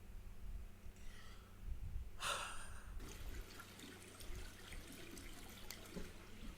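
Liquid being poured for about a second, starting about two seconds in, then faint scattered dripping and ticking over a low steady rumble.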